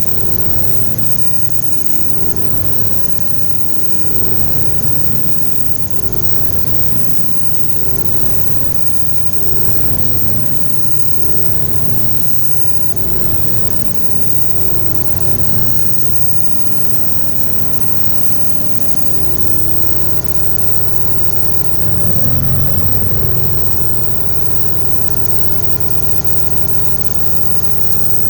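Electronic synthesizer music: a dense, steady drone of sustained low tones with a shifting texture, which changes about twenty seconds in and briefly swells a couple of seconds later.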